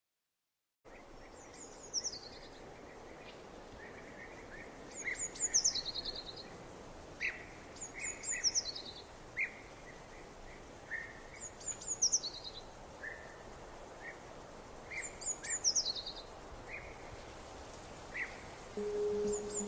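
Birds singing over a steady background hiss, starting about a second in. One bird repeats a short, high, descending song every three to four seconds, and other birds give scattered lower chirps between.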